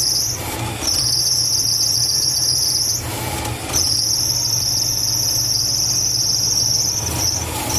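Loud, steady high-pitched insect buzzing that stops briefly about half a second in, again around three seconds, and again near the end, over a low rumble.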